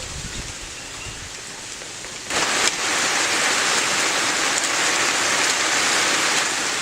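Steady hiss of falling water like heavy rain. It comes in suddenly and much louder a little over two seconds in, after a fainter hiss.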